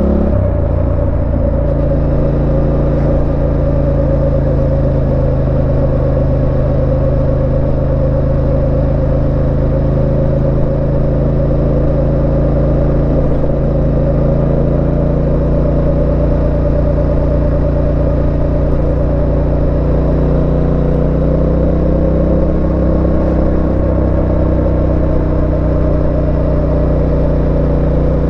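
Yamaha Tenere 700's 689 cc parallel-twin engine running under way. Its note drops sharply just after the start, then holds steady at a cruise.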